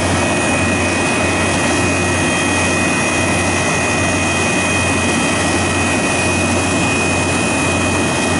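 Refrigeration condensing unit running steadily as refrigerant is charged into it, a constant machine noise with a low hum. A thin, steady high whistle sets in just after the start.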